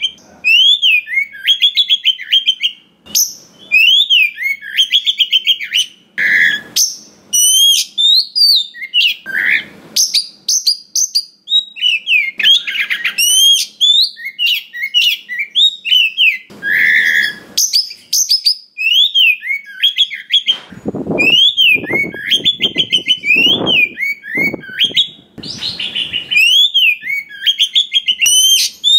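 Oriental magpie-robin singing a rich, varied song of rapid whistles, chirps and trills. About two-thirds of the way through comes a run of harsher, rasping notes.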